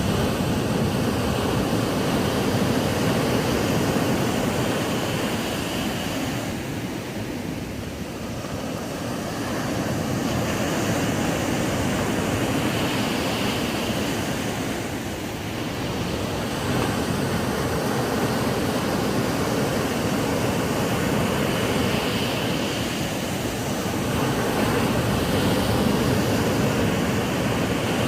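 Ocean surf washing onto a sandy beach: a continuous rushing noise that eases and swells again every seven or eight seconds.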